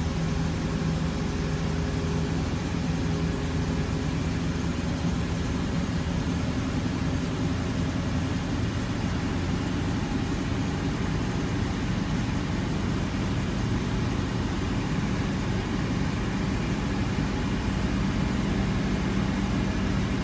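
Mercedes-Benz 450 SLC's 4.5-litre V8 idling steadily just after a cold start, heard from inside the cabin. It holds an even fast idle of about 1000 rpm while still cold.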